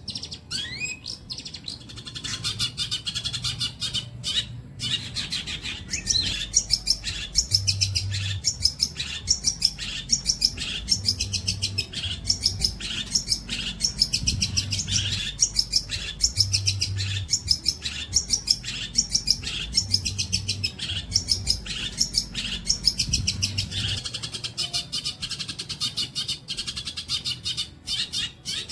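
Long-tailed shrike (cendet) singing a fast, continuous chattering song of rapid sharp high notes, its learned repertoire of phrases; the song thickens into a dense run about six seconds in.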